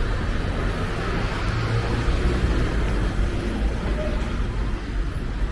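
Road traffic on a city street: a steady rumble and hiss of passing vehicles that swells a little midway through.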